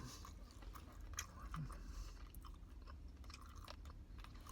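Close-miked chewing of food, faint, with scattered small crunches and wet mouth clicks.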